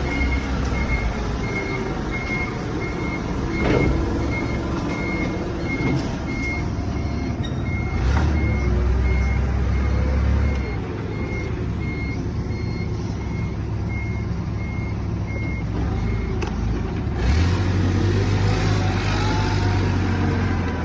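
A vehicle's reversing alarm beeping evenly, about two beeps a second, over a running engine during truck unloading. The beeping stops about three-quarters of the way through, and the engine gets louder twice.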